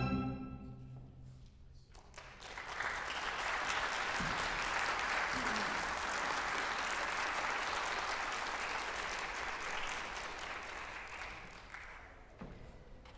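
A string orchestra's final chord ringing away, then audience applause that starts about two seconds in, holds steady and fades out near the end.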